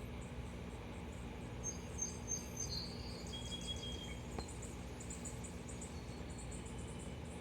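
Outdoor ambience: insects chirping in rapid high pulses throughout, with a few short, clear bird notes in the first half, over a steady low background noise.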